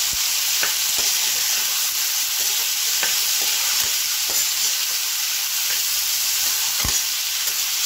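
Julienned pumpkin peel and potato sizzling steadily in hot mustard oil in a kadhai. A spatula stirs them and clacks against the pan now and then, hardest near the end.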